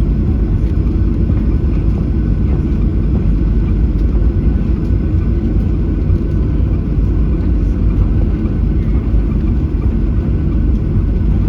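Steady low rumble inside the cabin of a Boeing 737-800 airliner: its engines and the airflow, with no change in level.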